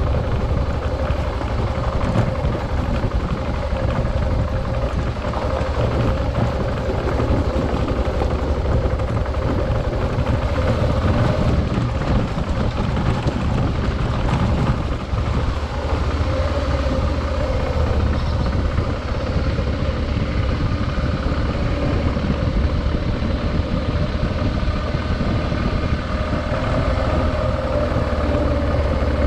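Adventure motorcycle being ridden, its engine holding a fairly steady note under a continuous low rumble.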